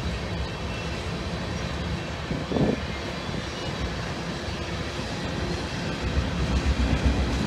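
Diesel freight locomotives running, a steady low rumble, with one brief louder blip about two and a half seconds in.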